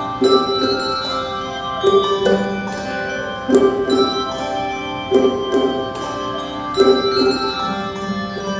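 Handbell choir ringing a slow piece: five chords struck about a second and a half apart, each left to ring on.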